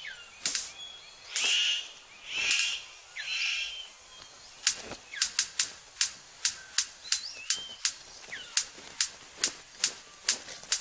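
Male superb bird of paradise displaying to a female: three noisy, rasping calls, then, about four and a half seconds in, a fast run of sharp clicks, about three a second, with brief chirps between.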